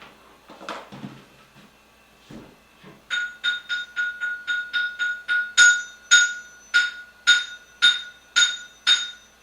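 A few faint knocks, then from about three seconds in a hard object is struck over and over, about two strikes a second, each strike ringing with the same bright metallic tone.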